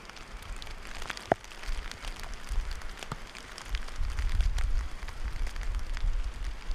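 Wind-driven frozen precipitation ticking irregularly on clothing and gear, with wind buffeting the microphone as a low rumble that strengthens in the second half.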